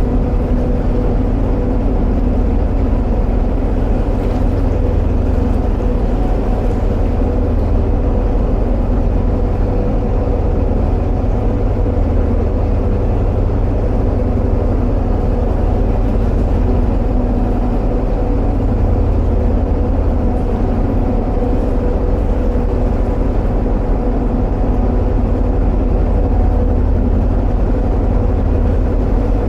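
Narrowboat's diesel engine running steadily at a constant speed, a deep low hum with a steady higher drone over it.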